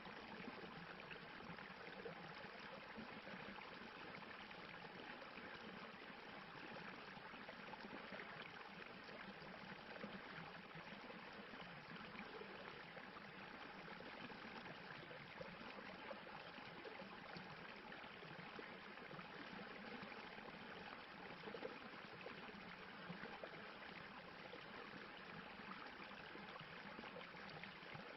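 Stream water rushing and splashing over rocks in a steady, quiet, unbroken wash.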